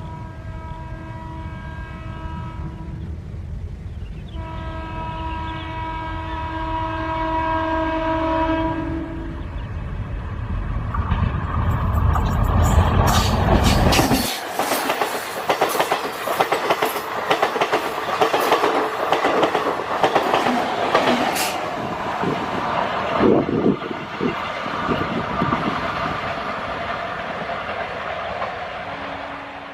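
A DEMU diesel multiple-unit train sounds its horn in two long blasts, the second a little after three seconds in, then passes close by with loud rumbling and fast clickety-clack of wheels over rail joints. The horn sounds briefly once more near the end.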